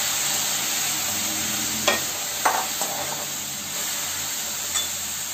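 Raw mango slices and their salty juice sizzling in a hot metal kadhai, with a steady hiss and a few sharp clinks of a metal spatula against the pan as they are stirred.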